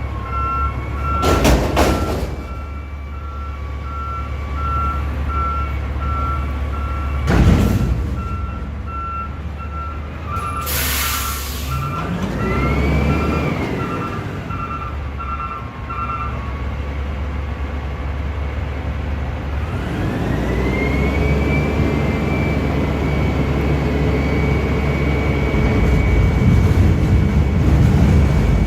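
Recycling truck's backup alarm beeping steadily over its diesel engine for the first half, with a few sharp bangs and a burst of air-brake hiss along the way. In the second half the engine revs up and a whine rises and then holds steady.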